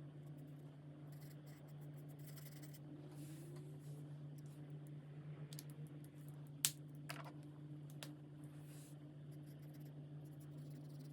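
Alcohol markers stroking across coloring-book paper in soft scratchy passes, with a sharp click about two-thirds of the way through and two fainter clicks just after it, over a steady low hum.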